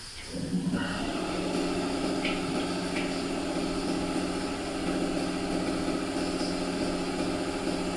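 A motor-driven machine starts about a third of a second in and runs steadily with a low hum, with a few faint light ticks over it.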